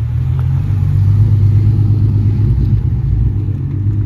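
Car engine running close by with a loud, steady low rumble.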